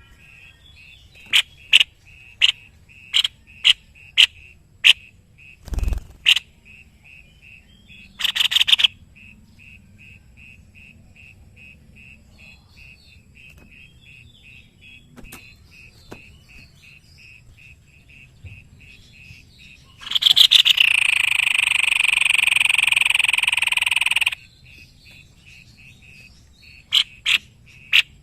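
White-necked babbler calling. It gives sharp clicking notes about twice a second, then a long run of quick pulsed notes, and about 20 seconds in a loud trill lasting about four seconds. There is a single low thump about six seconds in.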